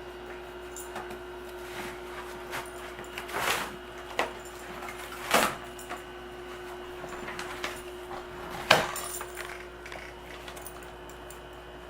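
Alaskan Malamute puppy ripping and chewing a cardboard box with her teeth and paws: a handful of scattered sharp rips and crunches, the loudest about nine seconds in.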